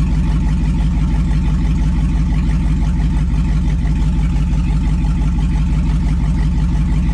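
Gas V8 engine of a 2002 2500HD pickup idling steadily after a start from long storage, with an even, unchanging low pulse.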